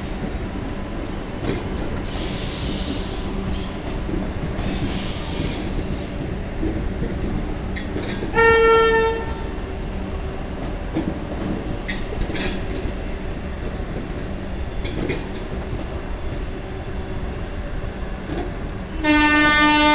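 Vande Bharat Express electric trainset running along a station platform: a steady rumble with wheels clicking over rail joints. A train horn sounds for about a second about eight and a half seconds in, and a lower-pitched horn blast begins near the end.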